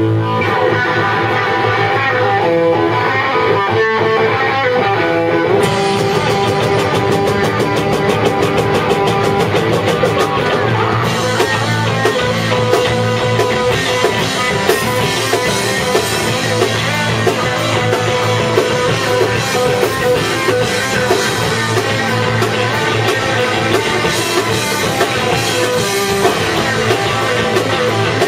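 Rock band rehearsing live: electric guitar and bass playing sustained notes, the drum kit coming in about six seconds in with a fast, steady cymbal beat, and the whole band playing full out from about eleven seconds in.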